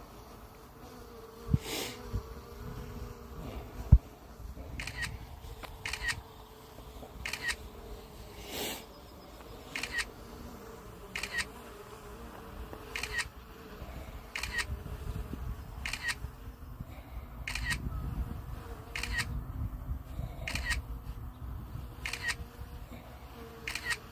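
Short, sharp clicks repeating about every second and a half, over a faint steady hum.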